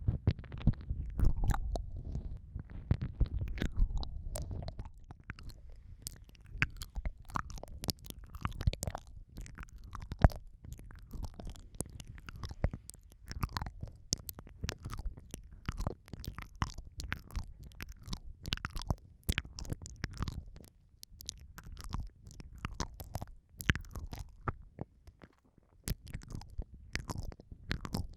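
ASMR ear-eating mouth sounds close on the microphone: a dense, irregular run of wet clicks, smacks and licks, with low muffled rumbling from mouth contact that is heaviest in the first few seconds and thins out after.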